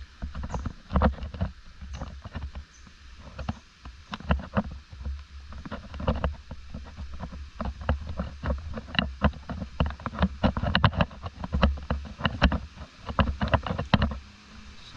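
Irregular clicks, knocks and rustling from a handheld camera being carried along, over a low rumble of wind and handling on the microphone.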